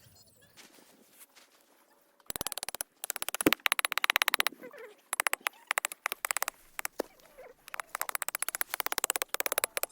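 A zipper pulled in several quick runs, each a fast rattle of clicking teeth, starting about two seconds in.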